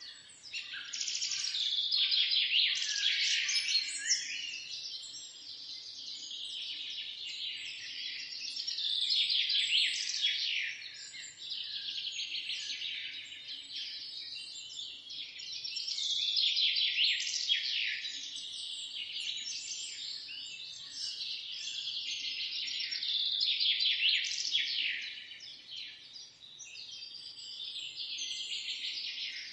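Many small birds chirping and twittering together in a dense chorus of quick high chirps that swells and fades every six to eight seconds.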